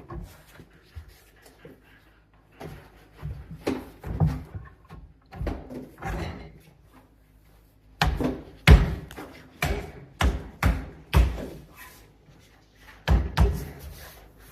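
An irregular series of sharp knocks and thumps, hard objects striking, sparse at first and coming faster and louder in the second half.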